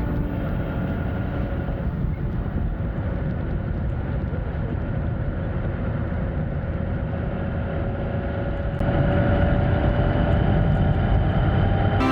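Honda Gold Wing GL1500 flat-six touring motorcycle running at road speed, its engine drone under heavy wind rush. It gets louder about nine seconds in.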